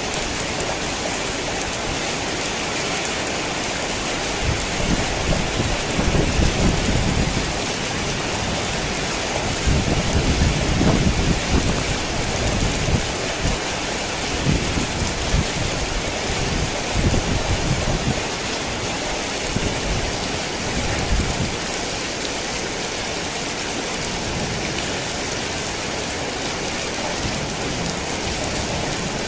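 Heavy rain falling steadily, with deep rolls of thunder rumbling under it from about five seconds in until roughly two-thirds of the way through.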